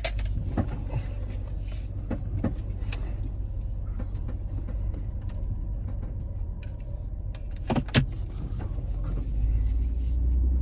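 Car driving in traffic, heard from inside the cabin: a steady low engine and road rumble that swells near the end, with two sharp knocks close together about eight seconds in.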